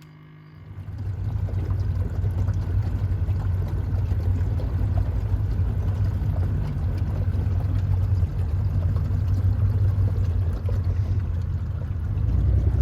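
Boat motor running with the boat under way, over a wash of water noise; it comes in suddenly about a second in and holds steady.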